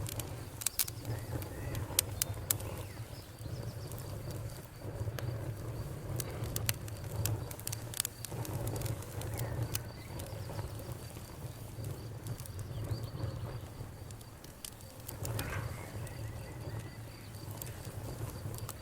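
Wood fire burning in a fireplace, crackling and popping with scattered sharp pops, densest in the first few seconds, over a low rumble of the flames.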